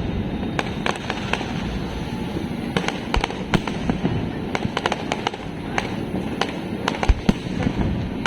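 Fireworks going off: a rapid, irregular string of sharp bangs and pops, several a second, over a continuous low rumble.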